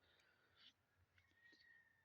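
Near silence: a pause between spoken sentences, with only faint room tone.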